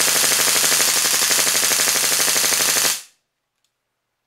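WE AK-74 gas blowback airsoft rifle firing one long full-auto burst on air-compressor power, fitted with upgrade parts that shorten the travel for a higher rate of fire. The very rapid shots run together and stop abruptly about three seconds in.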